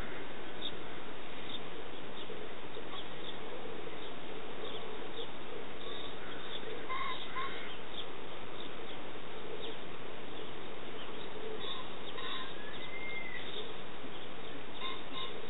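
Faint bird chirps over a steady background hiss: a few short calls about halfway through, and another small arching call about three-quarters of the way in.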